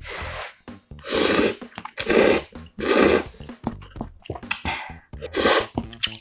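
Close-miked eating of budae-jjigae: loud slurps of stew-soaked ramen noodles, about four of them, with wet chewing between.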